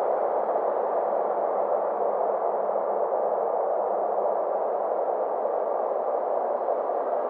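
Synthesized space-ambience drone: a steady, airy hiss-like wash in the middle register with faint tones slowly sliding in pitch above it.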